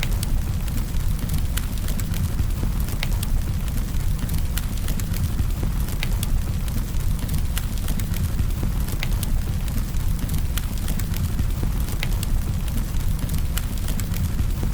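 Campfire burning, with wood crackling and popping in frequent sharp clicks over a steady low rumble.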